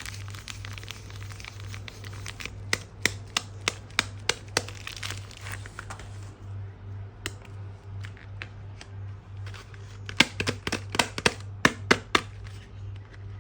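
Soap packaging crinkling and tearing as it is unwrapped by hand. Dense crackling for the first six seconds or so, a quieter stretch, then a run of sharp crackles near the end, over a steady low hum.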